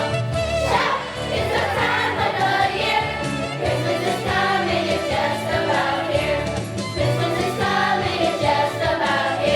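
A school choir singing a holiday song over musical accompaniment.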